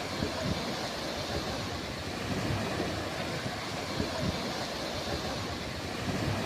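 Ocean surf washing onto a beach in a steady, unbroken hiss, with irregular low rumbles of wind buffeting the microphone.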